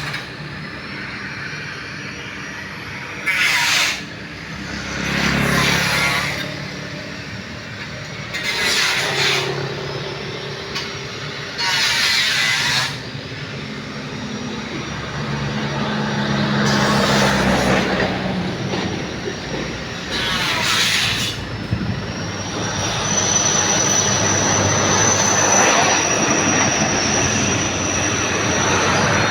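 Heavy diesel truck engines running, with short loud hissing bursts every few seconds and a high, steady squeal in the last few seconds.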